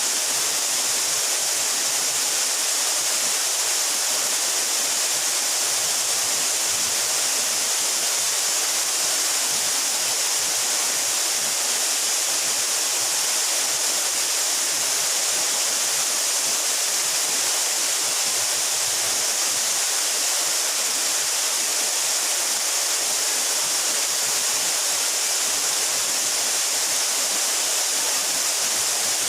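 A waterfall about 12 metres high pouring steadily into its pool, an even, unbroken rush of falling water with a bright hiss.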